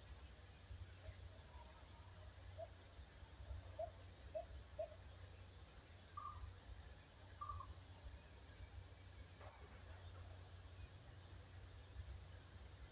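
Faint forest ambience: a steady high insect drone over a low rumble, with a few short bird chirps. There are four quick low notes in the first five seconds, then two higher notes a little later.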